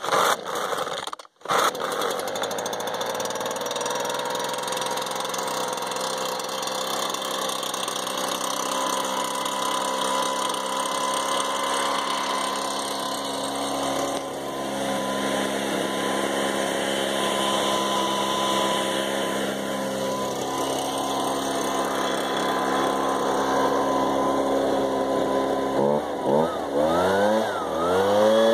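Ryobi BP42 backpack leaf blower's two-stroke engine catching on the pull and idling steadily, a cold start after sitting almost a year, run without the choke. Near the end it is revved up and down a few times and settles at a higher speed.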